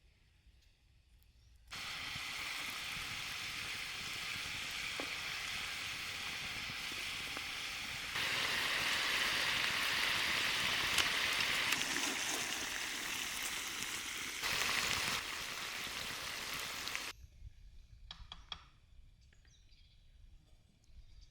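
Food frying in hot oil, a steady crackling sizzle heard in several cut-together stretches, louder from about eight seconds in. It cuts off abruptly near the end, leaving quiet outdoor background.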